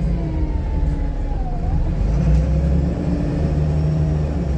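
VDL SB200 single-deck bus under way, heard from inside the cabin: a steady low engine and drivetrain rumble with faint whining tones, one of which dips in pitch about a second and a half in.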